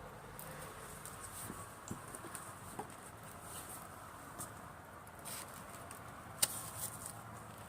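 Driftwood fire burning, crackling with scattered small pops over a soft steady hiss, and one sharper pop about six and a half seconds in.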